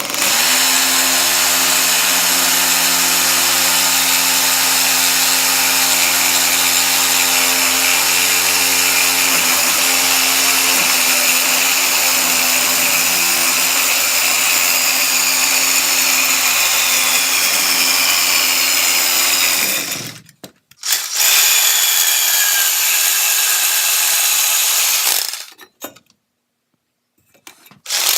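Electric angle grinder with a cut-off wheel cutting through steel exhaust pipe: a steady motor whine under a bright, hissing cut. It runs for about twenty seconds, stops, cuts again for about four seconds, falls silent, and starts up again right at the end.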